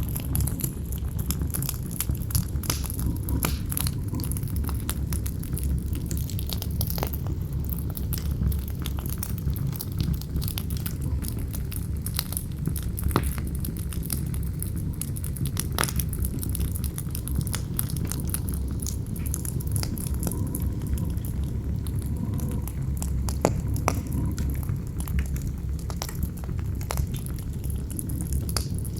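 Campfire crackling, with frequent sharp pops and snaps scattered irregularly, over a steady low rumble of wind.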